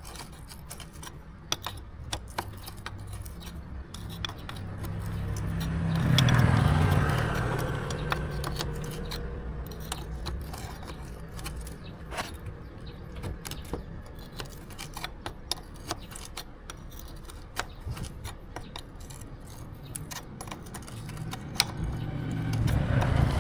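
Small metal tools and parts clinking and scraping during hand work on motorcycle parts, with many light clicks. A low rumble swells up about six seconds in, fades, and rises again near the end.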